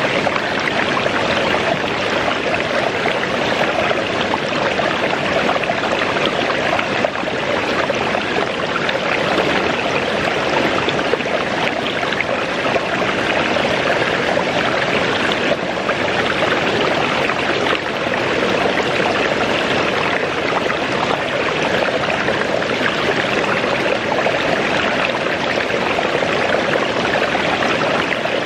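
Waterfall plunging and splashing with a steady rushing roar that does not change.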